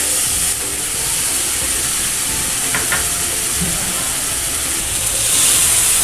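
Wet ground masala paste (tomato, chilli and spices) sizzling in hot oil in a steel kadhai, a steady steamy hiss that eases after the first half-second and grows louder again near the end. Two light ticks about three seconds in.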